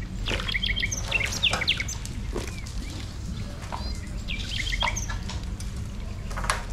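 A bird sings a quick phrase of short high chirps in the opening two seconds and repeats it about four seconds in, over a steady low rumble and a few faint knocks.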